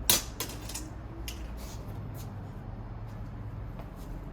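Handling clicks from the parts of an iMac being worked on by hand: one sharp click at the start, then a few fainter scattered ticks as a stuck part is tugged at and won't come free.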